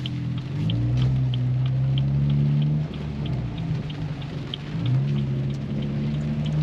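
Car engine heard from inside the cabin, pulling gently at low speed: its tone rises about a second in, falls back near the middle and rises again, over a low road rumble. A light regular ticking, about three a second, runs underneath.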